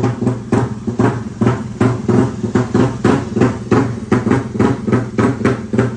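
Suzuki Satria FU's single-cylinder DOHC four-stroke engine idling as it warms up, with an uneven, lumpy beat of about three surges a second.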